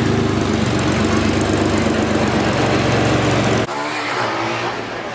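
Car engine running steadily at idle with an even drone. It cuts off abruptly about three and a half seconds in, leaving quieter street traffic noise.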